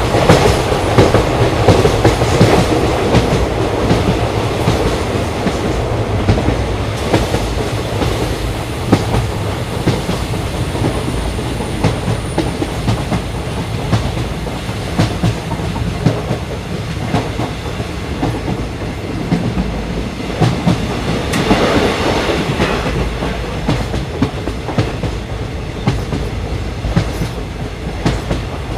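Indian Railways express train running on the track: a steady rumble with the wheels clicking over rail joints. It is a little louder in the first few seconds and swells again about three-quarters of the way through.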